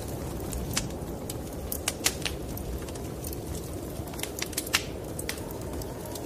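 Wood fire crackling in a fireplace: irregular sharp pops and snaps over a steady low rumble, with the loudest pops about two seconds in and near five seconds.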